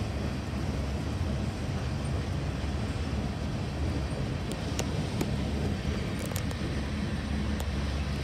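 Freight cars of a long CSX train rolling past, a steady low rumble of wheels on rails, with a few sharp clicks in the second half.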